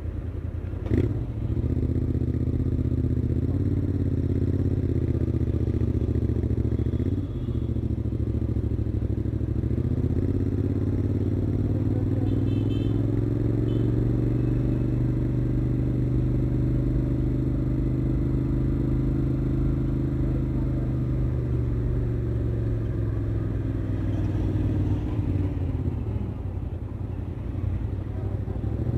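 Royal Enfield Continental GT 650's 648 cc parallel-twin engine running through its stock exhaust, a deep steady note whose revs rise and fall slowly. There is a sharp rev blip about a second in and a brief dip in revs around seven seconds.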